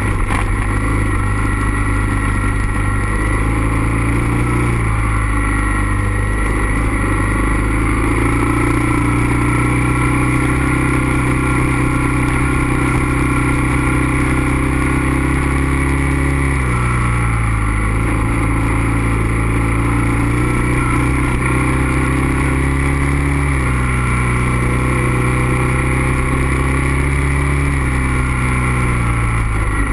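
Suzuki DR650's single-cylinder four-stroke engine running under way on a gravel road, heard close up. The engine note holds steady for long stretches and drops or rises in pitch a few times as the throttle and gears change, falling about halfway through, climbing again later and dropping near the end.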